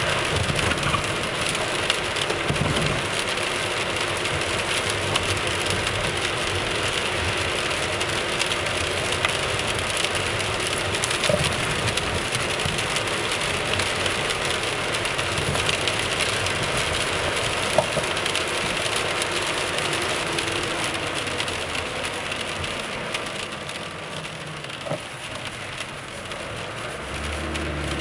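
Inside a Toyota Alphard Hybrid (10 series) on the move: steady road and tyre noise with a few light knocks from the RS-R Best-i coilover suspension. The knocking comes from a loose upper top nut on the coilover. A low hum comes in near the end.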